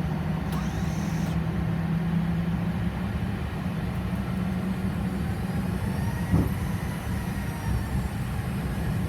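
Boeing 737's jet engines running at taxi power: a steady low hum with a faint high whine. A single short knock about six seconds in.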